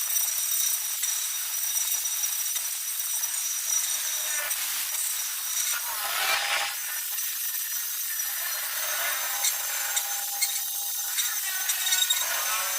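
Steel-fabrication tool work: a steady high-pitched hiss with scattered sharp ticks and a brief louder stretch about halfway through.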